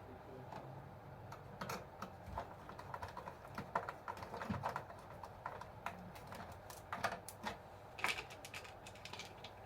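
Rapid, irregular small clicks and taps of small parts being handled while an RC bulldozer model is worked on, with a few louder clicks about 4, 7 and 8 seconds in.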